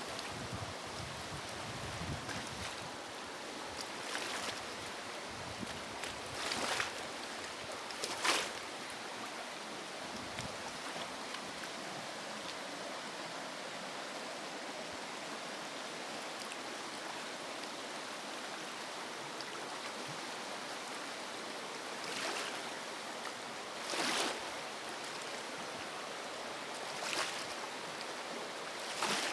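River water running steadily, with several brief louder bursts of water sound scattered through it.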